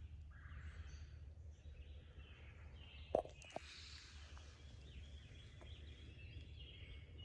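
Faint outdoor ambience of birds singing in the surrounding trees over a low steady rumble, with two sharp clicks a little under halfway in.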